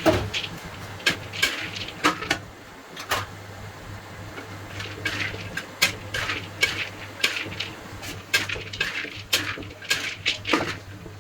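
Metal utensils clinking and scraping against dishes and trays in a kitchen: irregular sharp clinks, a couple of them a second, over a steady low hum.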